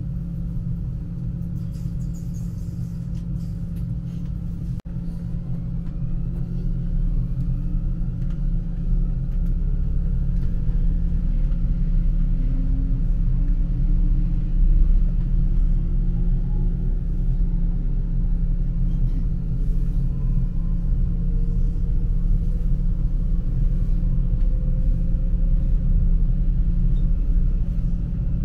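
Electric S-Bahn train running, with a steady deep rumble and a faint whine that climbs slowly in pitch as the train gathers speed. The sound grows louder about ten seconds in.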